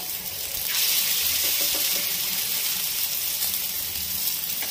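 Prawn vadai patties sizzling as they shallow-fry in oil on a nonstick tawa: a steady frying hiss that gets louder a little under a second in.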